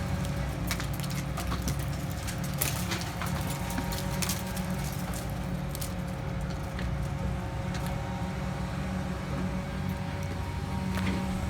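An engine running steadily at one speed, with scattered short sharp cracks and snaps over it.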